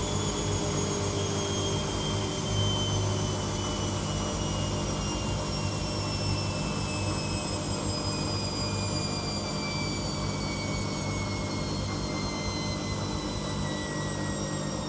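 Washing machine running, with a steady low hum and a motor whine that slowly falls in pitch, as the drum winds down from a spin.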